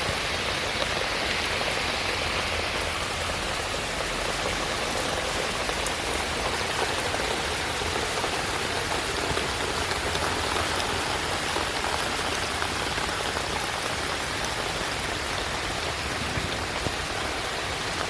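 Steady, heavy rain falling without let-up, a dense even patter of drops on hard surfaces.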